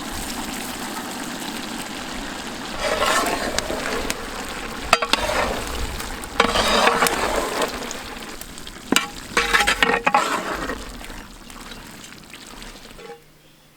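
Chicken and broccoli curry sizzling in a pot as it is stirred, the sizzle swelling with each stir, with a few sharp knocks of the stirring spoon against the pot. The sizzling dies away near the end.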